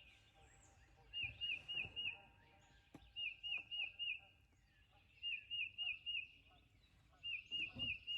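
A small songbird singing a clear whistled phrase of four quick notes, repeated about every two seconds, four times, over a faint outdoor background.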